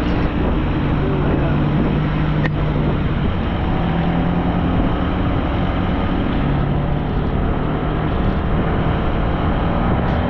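Motor scooter engine running steadily while riding, with heavy wind rushing over the microphone; the engine note shifts a little in pitch now and then.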